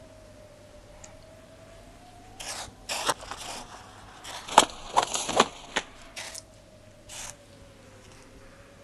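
Film soundtrack: a faint, steady high tone that slowly wavers in pitch, with a cluster of short scraping, rustling noises through the middle, loudest about halfway through.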